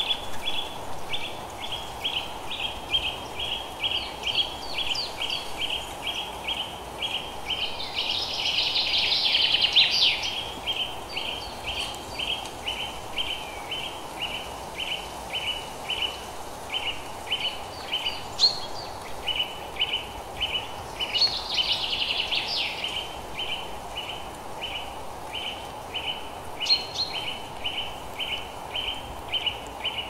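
Birds chirping: one bird repeats a short high note about three times a second without pause, and twice a louder burst of busier chirping breaks in. A steady low background hiss runs underneath.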